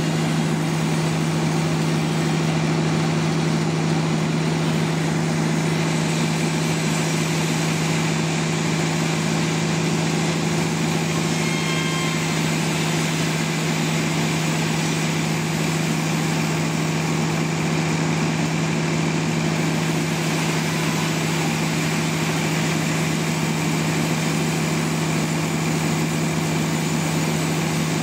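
Sawmill machinery running steadily with a constant engine hum, unchanged throughout.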